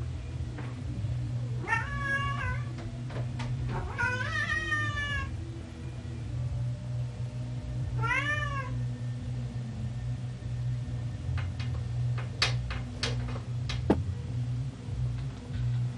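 A cat meowing three times, each call rising and falling in pitch, the second one longest, over a steady low hum. Several sharp clicks follow near the end.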